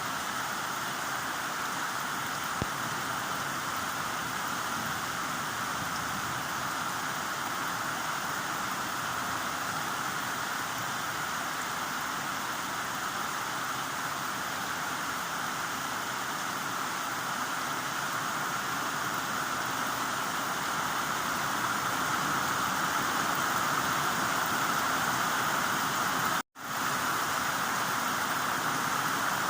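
Heavy rain falling in a steady, even hiss, growing slightly louder about two-thirds of the way in. Near the end it cuts out to silence for a moment before resuming.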